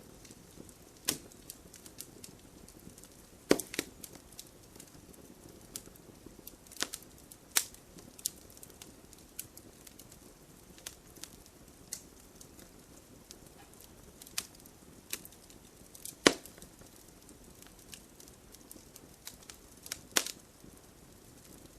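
Wood fire crackling in a fireplace: irregular sharp pops and snaps over a low hiss, with the loudest snaps about three and a half seconds in and again near sixteen seconds.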